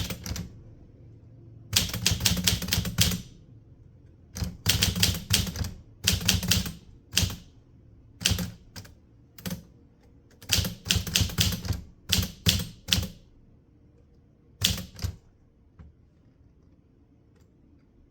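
Manual typewriter being typed on: bursts of rapid key strikes in short runs with pauses between, stopping about three seconds before the end.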